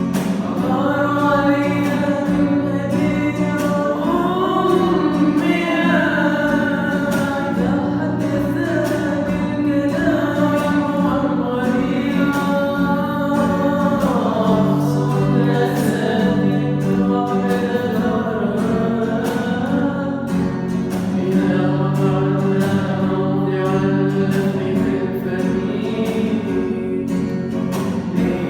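Arabic song: one voice singing long, sliding phrases over instrumental accompaniment with held low notes.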